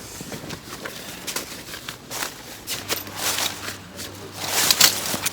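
Rustling and irregular light knocks and clicks of gear being handled, with two louder rustles about three and four and a half seconds in.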